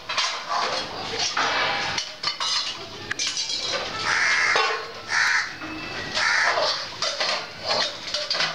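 Birds calling several times, loudest around the middle, over a steady background of clinks and clatter.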